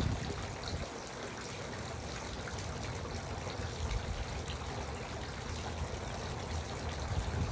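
Garden water fountain running steadily, its water trickling and splashing.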